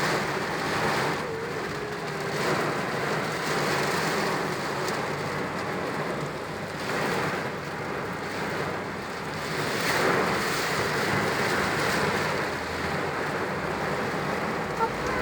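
Rain falling steadily and hitting a car.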